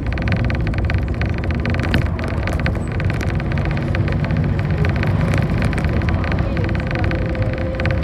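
City bus under way, heard from inside the cabin: steady engine and road noise with frequent small rattles. A faint steady whine is heard at the start and again near the end.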